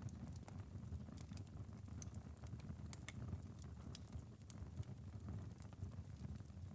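Wood fire crackling, with irregular sharp pops and snaps over a low steady rumble, and light rain pattering on a window.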